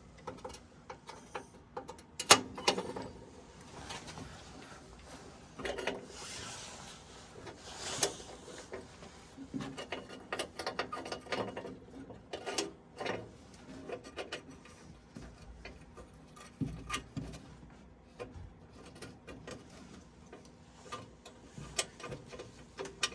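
Scattered clicks, taps and light metal clatter of a hand tool and sheet-metal parts being handled while a furnace flame sensor is fitted back in and its 1/4-inch screw driven home. A few sharper knocks stand out among them.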